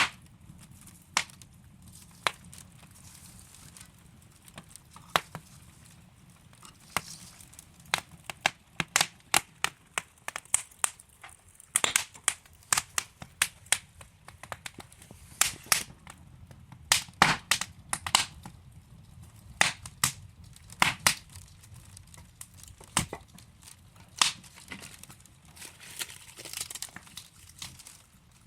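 Burning wood logs crackling in a fireplace: irregular sharp pops and snaps, some clustered in quick runs, over a soft steady rush of flame.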